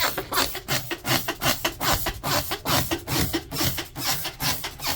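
Trigger spray bottle of industrial degreaser pumped over and over onto a sewing machine head, a quick run of hissing squirts, about three a second.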